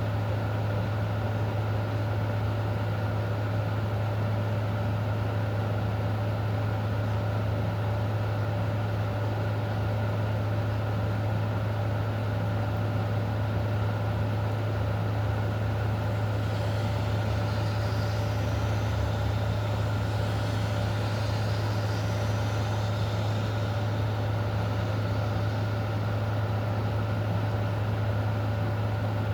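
A steady low mechanical hum with a steady mid-pitched tone over an even hiss, unchanging throughout; a faint higher warbling sound comes and goes between about halfway and three-quarters of the way through.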